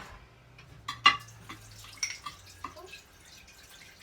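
A spoon being rinsed at a kitchen sink: water dripping, with a few sharp clinks, the loudest about a second in.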